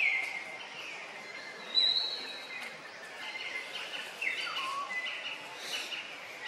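Forest birds calling: a string of short whistled chirps and gliding notes over a light background hiss, the loudest a high whistle about two seconds in, with a falling note a little past the four-second mark.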